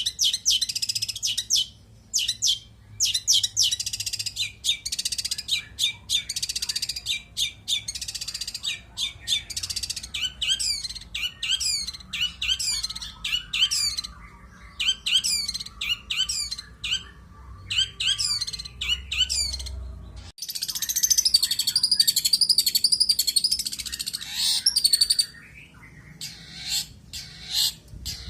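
Long-tailed shrike singing continuously: a fast, varied song packed with mimicked calls of other birds, in rapid trills and quickly repeated sweeping notes broken by short pauses. It becomes an unbroken warble for a few seconds after the middle, then thins out near the end.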